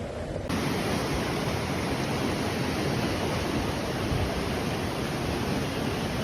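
Floodwater rushing past in a steady, even wash of noise, which becomes fuller and hissier abruptly about half a second in.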